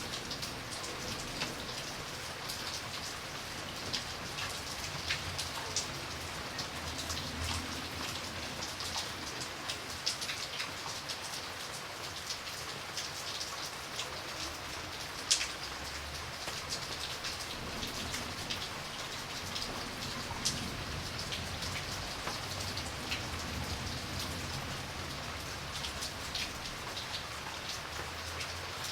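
Steady rain falling, with many separate drops ticking on a hard surface over the even hiss; one sharper drop hit stands out about halfway through.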